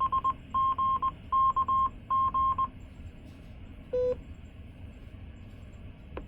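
Repeater controller sending its station ID in Morse code: a steady beep near 1 kHz keyed in short and long elements for about two and a half seconds. One short, lower courtesy beep follows about four seconds in, over a steady background hum.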